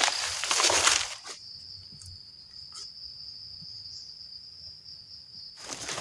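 Crickets singing in the forest, one steady high unbroken trill. Louder rustling noise covers the first second and returns near the end.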